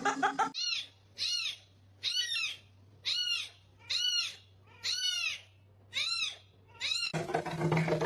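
A kitten meowing over and over, seven rising-and-falling meows about once a second.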